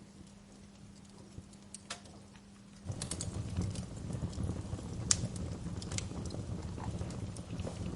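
Wood fire crackling in a fireplace, with scattered sharp pops and one loud pop near the middle. For about the first three seconds the fire is faint over a low steady hum. Then a louder low rumble of the burning fire sets in abruptly and stays.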